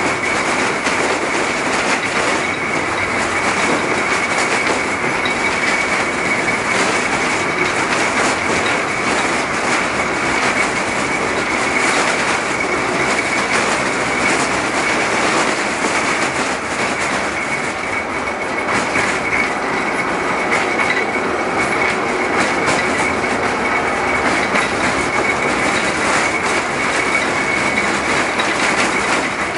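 LM-68M tram running along the track: a steady, loud rolling noise with scattered clicks from the rails and a high, sustained tone over it.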